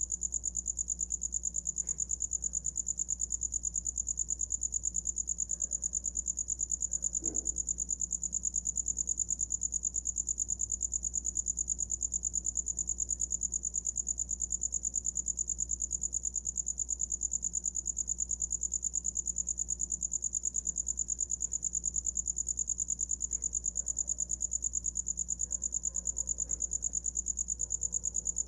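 Cricket chirping continuously in a high-pitched, rapid and even pulsing trill that never pauses.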